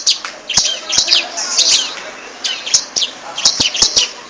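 A caged ciblek semi, a small prinia, singing busily: quick runs of high, sharp chirps and trills repeated without pause, mixed with sharp clicks.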